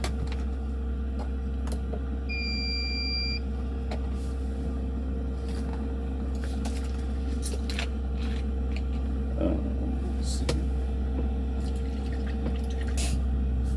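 Steady low machine hum with a constant mid-pitched drone, with scattered light clicks and taps over it.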